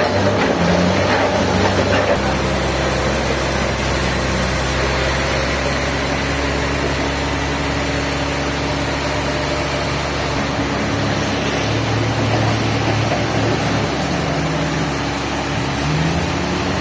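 An engine running steadily at a fairly constant speed, its tone shifting slightly about two seconds in and again later.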